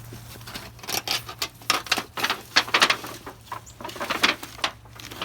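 Quick, irregular rustling, scraping and light clicks from an object being lifted and handled amid debris.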